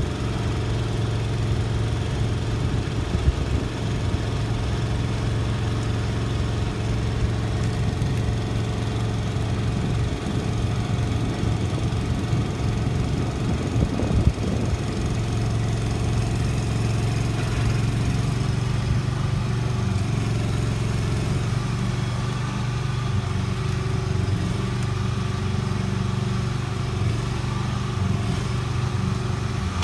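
An engine running steadily at a constant speed, a low even hum, with a couple of brief knocks, one about three seconds in and one near the middle.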